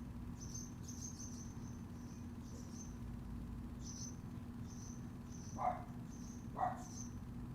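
Crickets chirping in short high chirps, repeating about once or twice a second over a steady low hum. Near the end, two short, louder sounds about a second apart stand out.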